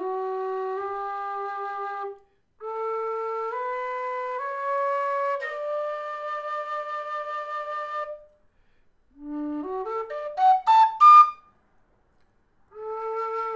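Kerry Low D whistle playing an ascending scale: held notes stepping up from the bottom D to the D an octave above, the last one held for a few seconds. After a short pause comes a quick run up into the second octave, ending in a few loud high notes, and a fresh scale begins near the end.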